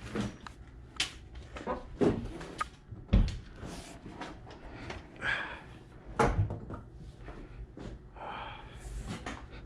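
Scattered knocks and clunks of handling, the loudest about three seconds in and another about six seconds in, with rustling between them.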